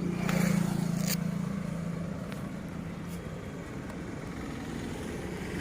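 A vehicle engine running with a steady hum that fades away over about three seconds, over a low rumbling road noise, with a few faint clicks.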